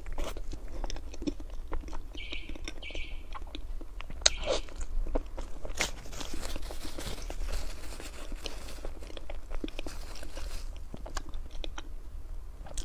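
Close-up eating sounds of a person chewing a soft matcha crepe cake: irregular wet mouth clicks and smacks, with a few louder bites.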